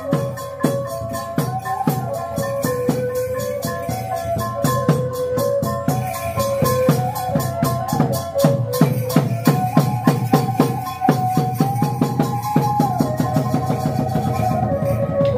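Khmer chhay-yam drum ensemble playing: a regular run of drum and cymbal strikes, about three a second, under a sustained melody line that steps up and down in pitch.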